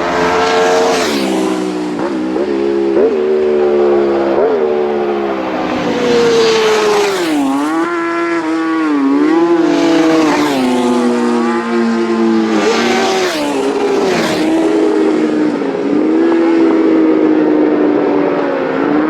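Racing motorcycles passing one after another at speed, engines revving hard with pitch rising and falling through gear changes. There are several loud passes, each sweeping by and fading.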